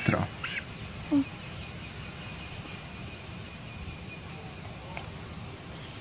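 Quiet background with a few faint, brief bird chirps, one of them a short falling peep near the end, and a brief low sound about a second in.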